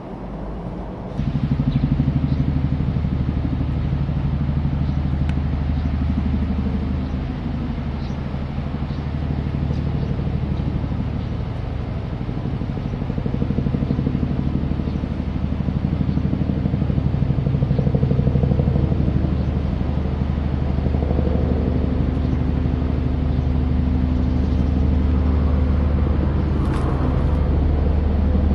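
Helicopter flying low overhead: steady rotor and engine sound with a rapid pulsing beat, starting abruptly about a second in.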